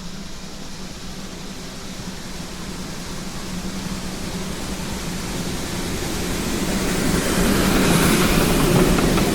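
A train running, a steady hum and hiss growing steadily louder as it draws near, with a few light clicks near the end.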